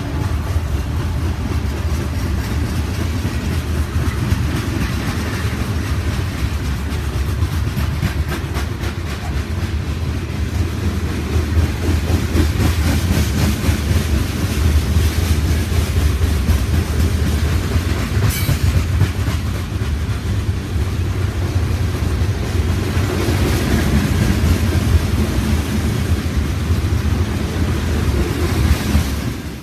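Freight train of covered hopper cars rolling past close by: a steady heavy rumble with the wheels clicking over rail joints. A brief, sharp high-pitched sound cuts through about eighteen seconds in.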